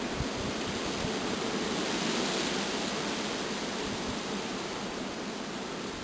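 A steady rushing noise with no distinct events, easing off slightly near the end.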